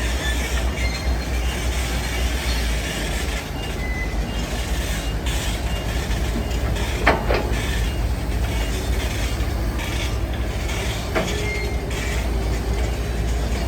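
Heavy construction machinery running: a steady low engine rumble with metallic clatter and short high squeaks. There are sharp metal clanks about seven seconds in and again about eleven seconds in.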